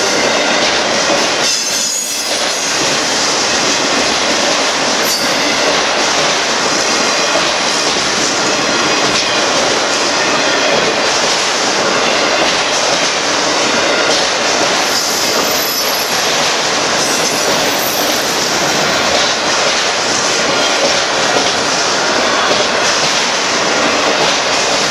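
Union Pacific freight train of autorack cars rolling past: a steady, loud noise of steel wheels on the rails.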